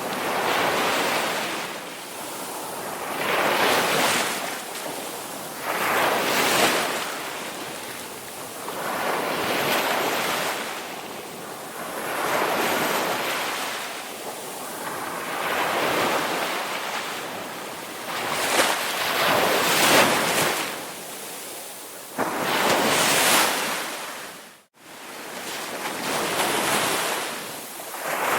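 Ocean waves breaking and washing up the shore, a surge of rushing surf about every three seconds. The sound cuts out for an instant about three-quarters of the way through.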